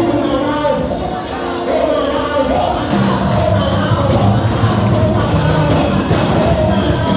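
Band music with singing and a steady drum beat, typical of a church praise band playing live.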